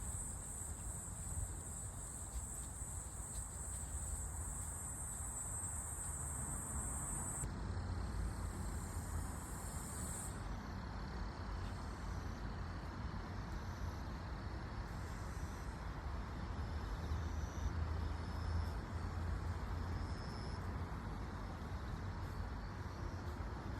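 Hairy cicada (Platypleura kaempferi) buzzing, a continuous high-pitched drone that changes about seven seconds in and stops about ten seconds in. Afterwards only faint, intermittent high insect chirps remain over a steady low rumble.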